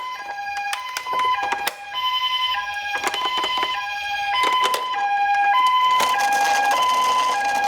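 Toy ambulance's electronic two-tone siren, a higher and a lower note swapping about every half second in the Japanese pee-po pattern, with scattered clicks and knocks of the toy car running on cardboard.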